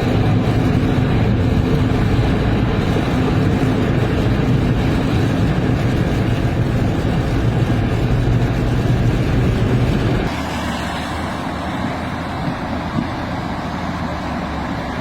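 Steady rumble of a motor vehicle on the road, with engine hum and road noise. It drops in its low end and gets a little quieter about ten seconds in.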